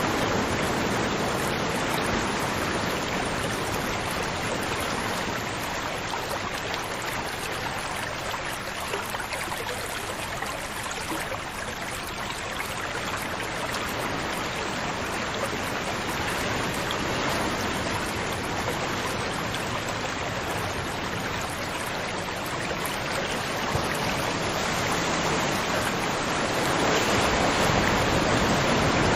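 River water flowing and rushing steadily, swelling and easing gently and rising somewhat near the end.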